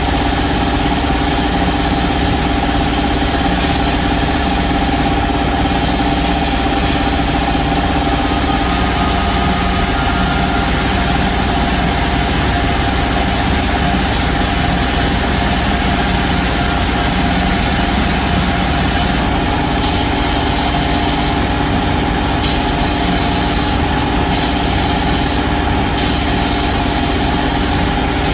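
A workshop power tool's electric motor running steadily, a constant hum with a broad hiss over it.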